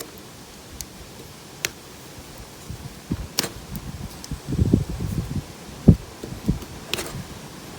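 Handling noise from hands working with tools and parts: scattered sharp clicks and rustling, with a run of low knocks and bumps about halfway through, the loudest a single thump about six seconds in.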